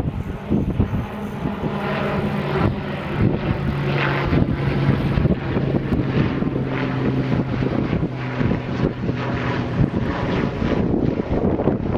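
An engine running steadily with a shifting low drone, with wind buffeting the microphone.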